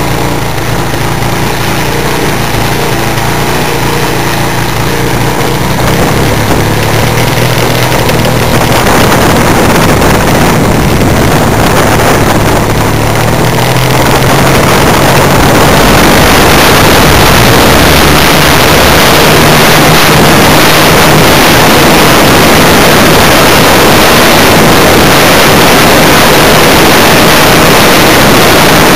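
Funtana S90 model airplane's engine and propeller, heard close up: running at low speed at first, then throttling up from about six seconds in until, past about fourteen seconds, it runs loud and steady at high power, mixed with heavy wind noise on the microphone.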